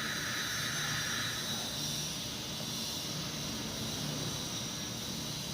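Steady machine running noise, a hiss over a low hum, its upper band dropping away about a second and a half in.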